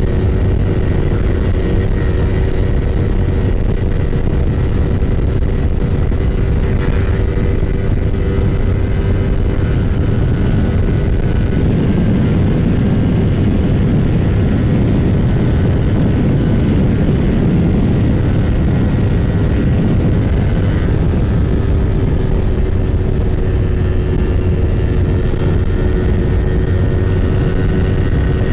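Yamaha R25's parallel-twin engine running at steady revs while riding, under a constant rush of wind and road noise.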